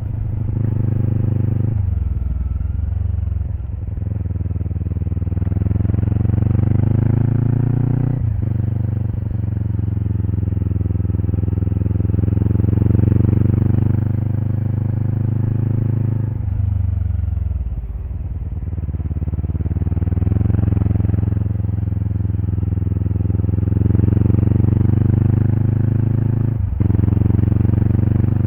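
Kawasaki Eliminator SE's 400 cc parallel-twin engine running through a BEAMS Power Header W aftermarket exhaust under way. The revs climb steadily and drop back sharply about four times, as at gear changes, heard close to the muffler.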